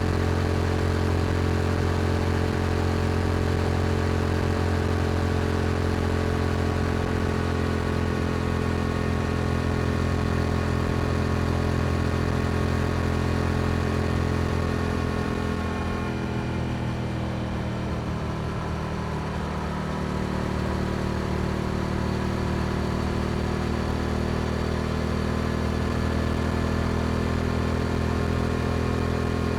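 Yamaha R7's 689 cc parallel-twin engine through an aftermarket Akrapovic exhaust, running at steady cruising revs. About halfway the throttle closes and the note drops, then holds steady again at lower revs.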